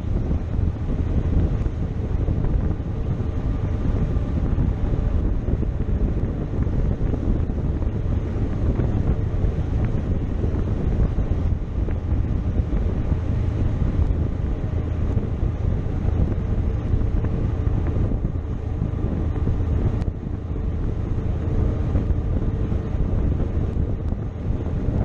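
Heavy wind rushing over the microphone of a moving motorcycle, with the motorcycle's engine running steadily underneath.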